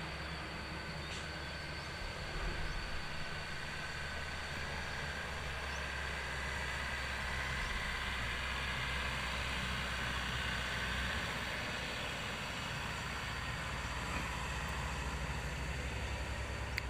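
Overloaded dump truck creeping down a steep descent, its engine rumbling low, with a high brake squeal that swells in the middle.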